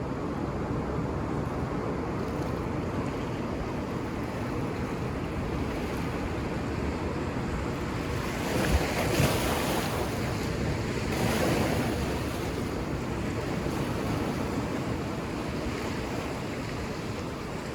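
Ocean surf washing on a beach: a steady rush of waves, with two louder waves breaking about halfway through.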